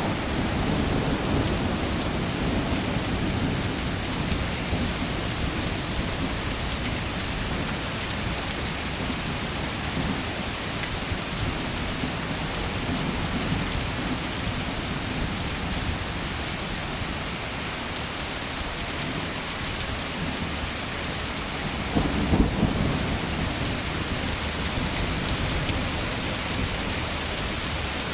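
Steady heavy rain hissing, with low rolling thunder that swells at the start and again about 22 seconds in. Scattered small clicks sound through the rain.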